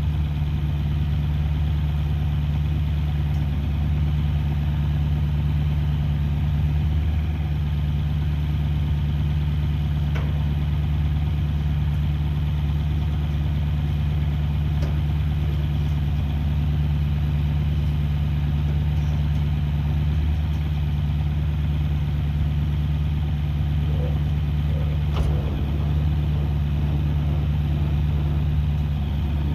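Farm machine engine idling steadily with a low, even hum.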